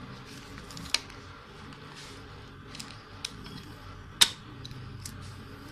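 Waterproof plastic phone pouch being handled and opened, with a few sharp clicks; the loudest comes about four seconds in.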